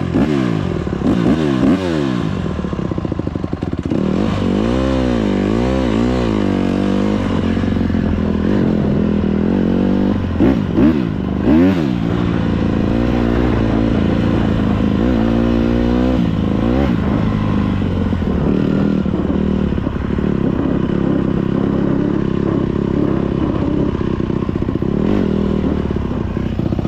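Dirt bike engine being ridden, revving up and down over and over in quick swoops of pitch. It then runs at a steadier speed through the second half.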